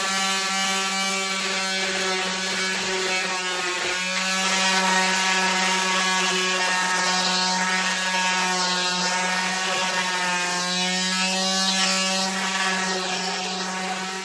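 Electric power sander running on wood: a steady motor hum with a scratchy hiss that swells every second or two as it is worked across the surface.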